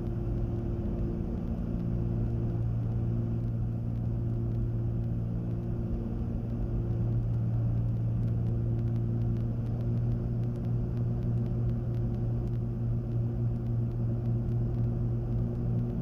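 Cessna 310Q's twin piston engines and propellers running steadily at reduced power on short final, heard from inside the cabin. From about ten seconds in, the drone takes on a slow rhythmic throb as the two engines drift slightly out of sync.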